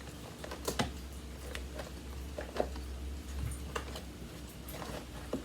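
Scattered light clicks and taps, about six or seven, from plastic vacuum cleaner parts being handled and fitted together.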